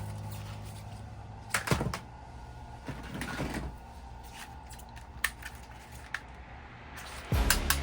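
A few sharp clicks and knocks in a quieter stretch, the loudest about two seconds in, with a cluster a second or so later and a single one past the middle; music with a heavy bass comes back in near the end.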